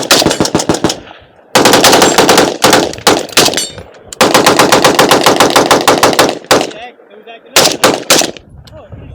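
Very rapid gunfire in several long strings, about ten shots a second, the longest lasting over two seconds, followed by a few single shots near the end.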